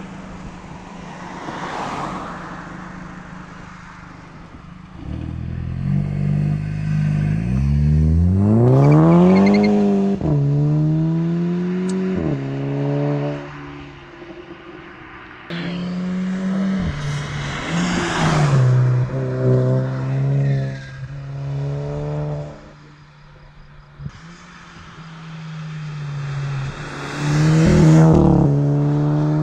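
Tuned Volkswagen Golf GTI Mk5's turbocharged 2.0-litre four-cylinder, through an aftermarket exhaust, accelerating hard through the gears. The revs climb steeply and drop at each shift, ease off, then climb again near the end.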